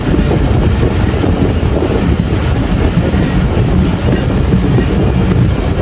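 Passenger train running along the track: a steady, loud rumble of wheels on rails.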